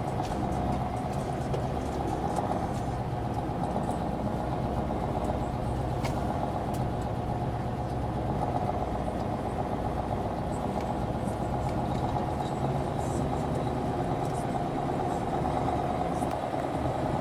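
Heavy diesel engine running steadily at an even pitch.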